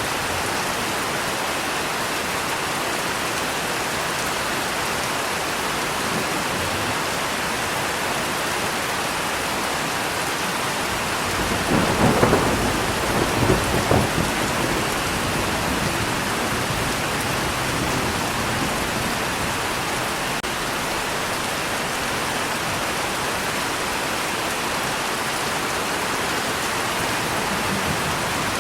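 Steady rain with a rumble of thunder about twelve seconds in, rolling for a few seconds before it fades back under the rain.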